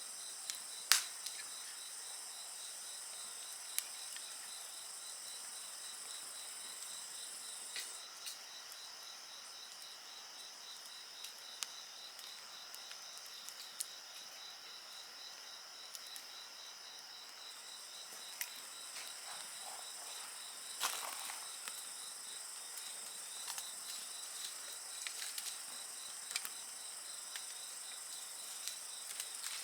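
Insects chirping in a steady, rapidly pulsing high trill, over a wood fire crackling with scattered sharp pops, the loudest about a second in.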